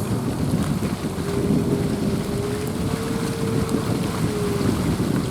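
Vehicle running slowly, heard from inside the cabin: a steady low road-and-engine rumble with a held hum that fades out about four and a half seconds in.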